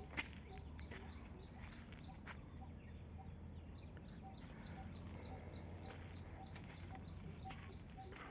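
Small birds chirping in quick runs of short high-pitched notes, with a lower single note repeating evenly about twice a second. A sharp click just after the start.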